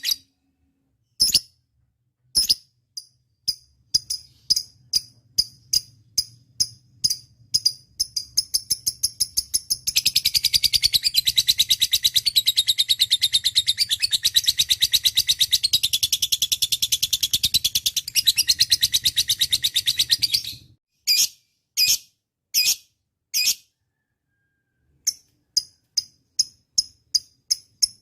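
Lovebird calling: a run of sharp, high chirps, then one long, very rapid chattering trill lasting about ten seconds, then more separate chirps speeding up near the end.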